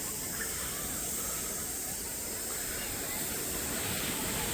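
Steady hiss of gentle surf and shallow seawater at a sandy beach, with no distinct splashes or breaking waves standing out.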